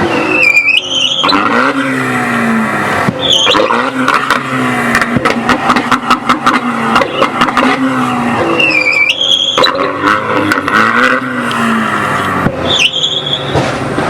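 Car engine revving up and down hard, with short bursts of tire squeal recurring every few seconds.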